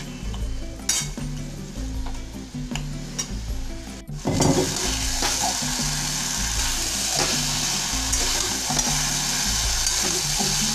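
Wooden spatula stirring and scraping cabbage, potato and fish-head pieces frying in a metal kadai, with steady sizzling. After a brief break about four seconds in, the sizzling is much louder.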